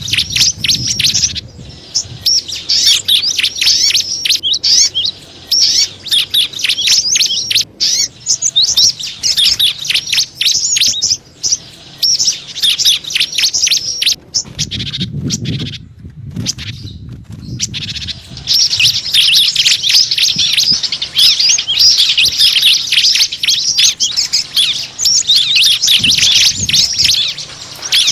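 Bird-lure recording of small songbirds chirping and twittering rapidly and densely, high-pitched, thinning out briefly a little past halfway.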